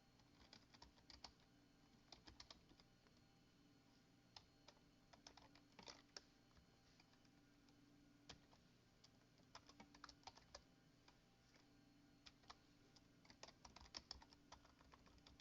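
Faint typing on a computer keyboard: quick runs of keystrokes separated by short pauses.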